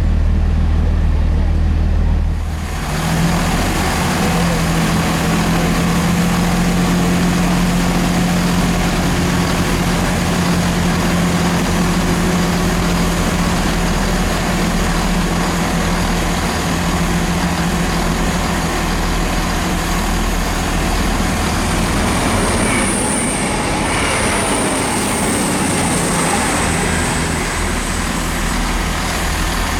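A train passing close by, with steady engine and wheel-on-rail noise that builds suddenly a couple of seconds in. A high squeal of wheels or brakes comes in about three quarters of the way through.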